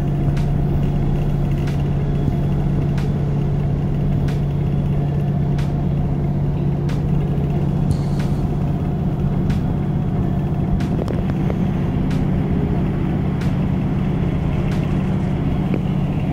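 Moving passenger train heard from inside the carriage: a steady low drone and rumble from the engine and running gear, with light regular clicks about every second and a quarter from the wheels.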